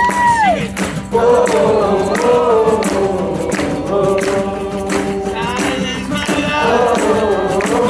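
Live rock band playing, with sustained melodic lines over a steady drum beat and cymbal hits.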